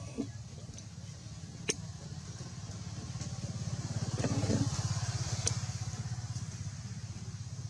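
A motor vehicle engine running with a steady pulsing rumble, growing louder to a peak about halfway through, then easing off. There are two sharp clicks along the way.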